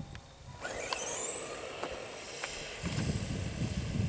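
Electric 1/10-scale RC stadium truck accelerating away on a straight run, its motor whine rising in pitch about a second in. A lower rumble joins near the end.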